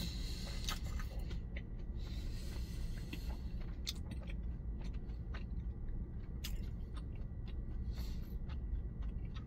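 A person chewing a mouthful of kimbap with the mouth closed, making scattered small wet clicks, over a steady low rumble.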